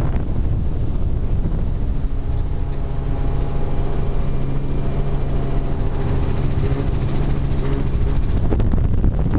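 Wind buffeting the microphone over the low rumble of an aircraft engine carrying the camera. From about two seconds in, a steady engine hum rises above the rumble and drops out near the end.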